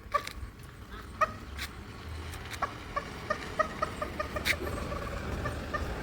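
Domestic turkey clucking: a series of short, pitched cluck notes a few per second, answering a person's turkey calls. A sharp click sounds about four and a half seconds in.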